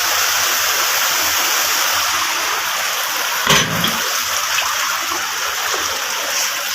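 Floodwater rushing steadily, with one dull thump about halfway through.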